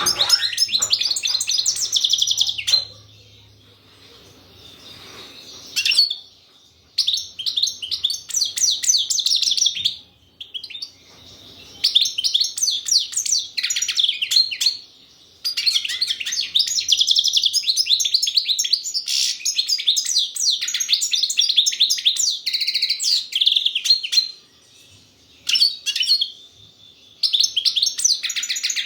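European goldfinch singing: fast, tinkling twittering phrases, in bursts of a few seconds with short pauses between them and one long run of about eight seconds in the middle.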